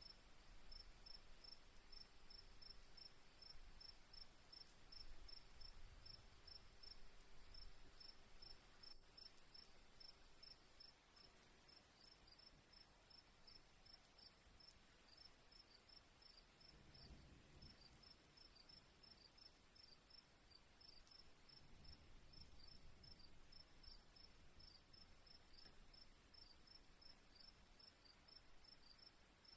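Crickets chirping faintly: a steady high-pitched trill with evenly spaced short chirps, a few a second, over a soft low rumble.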